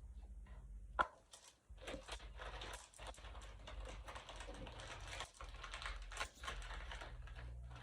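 A pack of pineapple pretzel sticks being handled and opened: irregular crinkling and crackling of the wrapper, with one sharp click about a second in.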